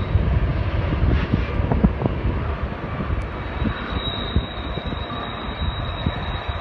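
Covered-hopper freight train rolling downgrade around a tight curve: a steady, heavy low rumble from the train, with a thin, steady high tone running over it.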